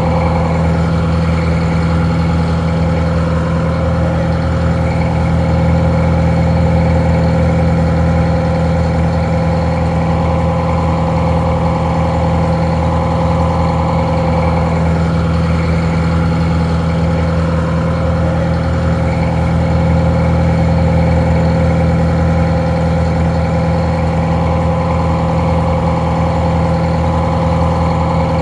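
Detroit Diesel 4-71 two-stroke diesel engine idling steadily, slightly muffled.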